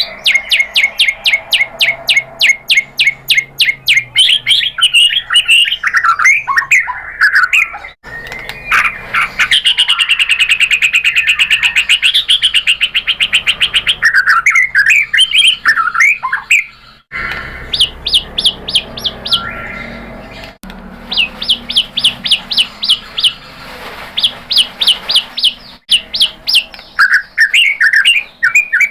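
White-rumped shama (murai batu) singing loudly: long runs of rapid repeated sharp notes, several a second, broken up by varied whistled and warbling phrases. The song stops abruptly a few times and starts again.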